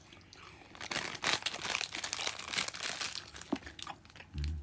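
Plastic sweet packet crinkling and rustling as it is handled, in a run of quick, irregular crackles.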